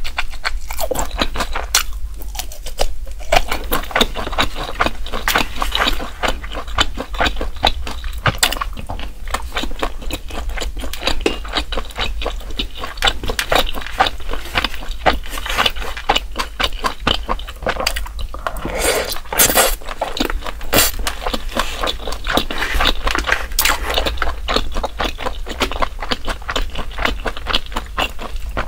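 Close-miked eating sounds: chewing mouthfuls of grilled eel rice with diced fried egg, a dense run of quick wet mouth clicks. A wooden spoon scrapes through the rice in a plastic tray.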